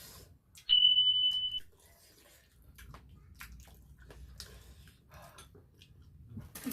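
A single steady high-pitched beep lasting just under a second, about a second in, followed by faint wet chewing and gnawing sounds of eating chicken feet.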